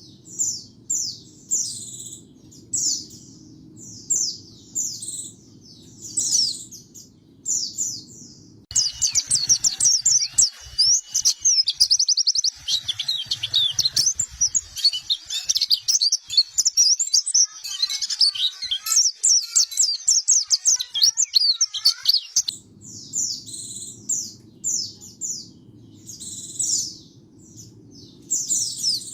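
White-eyes (pleci) calling: short high chirps about once a second, then, about nine seconds in, a dense fast twittering song that runs for roughly fourteen seconds before giving way to single chirps again.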